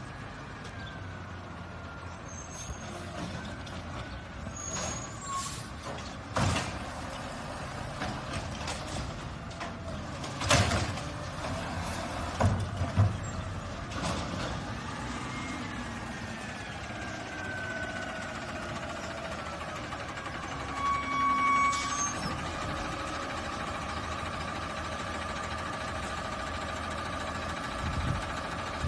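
Garbage truck working: the engine runs under a whine that rises and falls, with several sharp clanks and knocks in the first half and a steady whine from about two-thirds of the way in.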